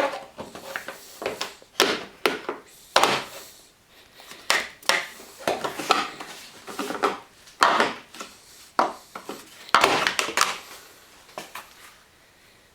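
Trim panel under the windshield of a 2005 Toyota Matrix being handled and worked into place: irregular knocks, clacks and scrapes that die away about a second before the end.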